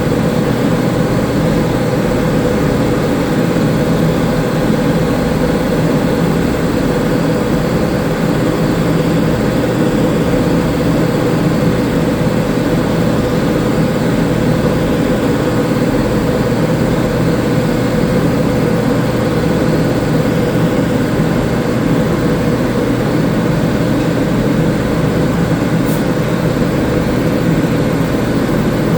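Steady, loud machine drone with a constant hum, unchanging throughout.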